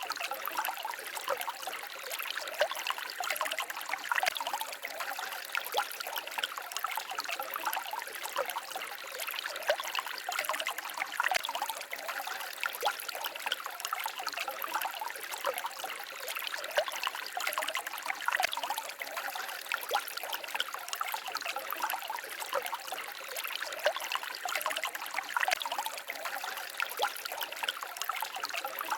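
Small forest stream babbling and trickling over stones, a steady stream of little splashes and gurgles.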